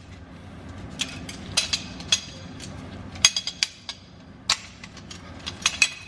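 Metal garbage disposal mounting parts being handled, giving a string of irregular sharp metallic clinks and taps with a short ring after each.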